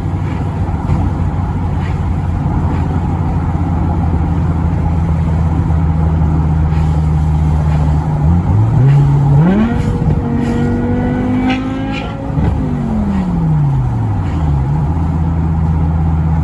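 BMW M6 E64's 5.0-litre V10 running at a steady cruise. About eight seconds in the revs climb sharply under acceleration, then about four seconds later fall away and settle back to a steady cruise.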